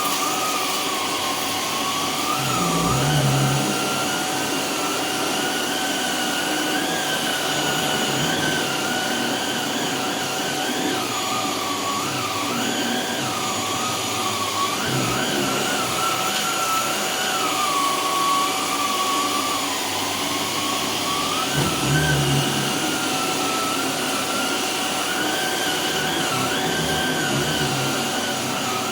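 Canister vacuum cleaner running with a powered brush head on a rug. Its motor whine wavers up and down in pitch as the load changes, with a couple of dull knocks from the head, about three seconds in and again past twenty seconds.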